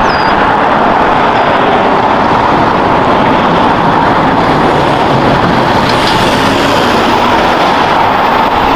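Loud, steady rushing noise like a vehicle running, with no clear engine pitch, that starts and stops abruptly.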